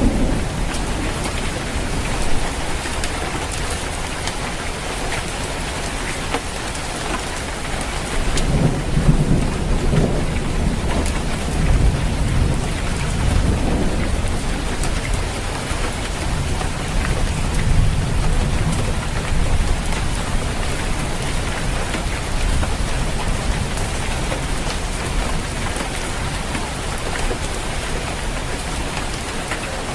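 Steady rain falling on a roof, with low rolling thunder that swells about eight seconds in and again a little before halfway.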